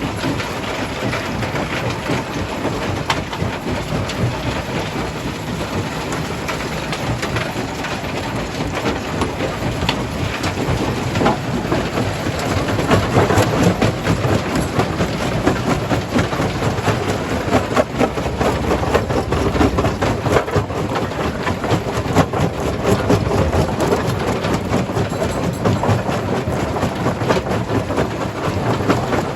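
Primary jaw crusher running and crushing stone: a steady heavy rumble thick with the cracking and clattering of rock, growing somewhat louder about halfway through.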